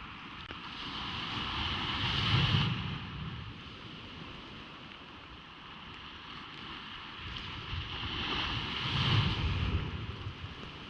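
Ocean waves breaking on a beach: two waves build, break and wash out, the first peaking about two and a half seconds in and the second about nine seconds in.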